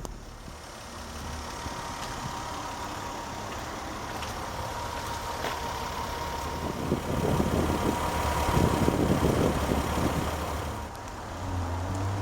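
Toyota Solara's 3-litre V6 idling steadily, with a faint steady whine over it. A louder, rough rumble rises from about seven seconds in and drops away near the end.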